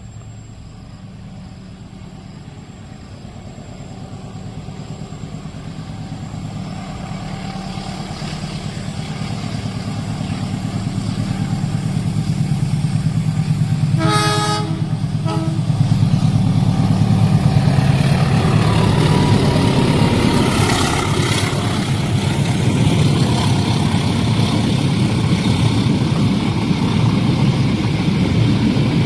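A train approaching and passing a level crossing: its low rumble grows steadily louder, the locomotive horn sounds once and then briefly again about halfway through, and the noise of the passing train fills the rest.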